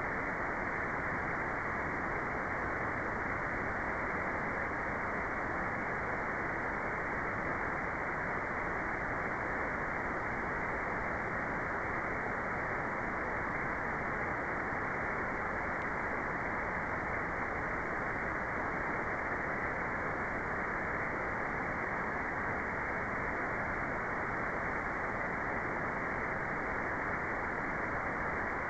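Steady, unchanging white noise played as a meditation sound, filtered so that it is a muffled hiss with no high treble.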